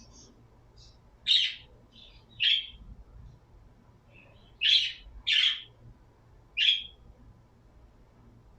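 A pet bird calling: about five loud, short, high chirps at uneven intervals, with a few fainter chirps between them.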